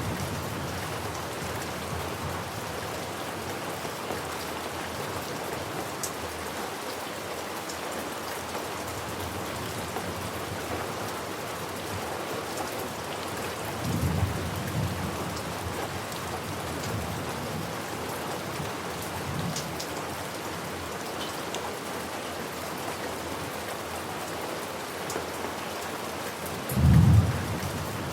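Steady rain falling, with low rolls of thunder rumbling about halfway through, a fainter one a few seconds later, and a louder one near the end.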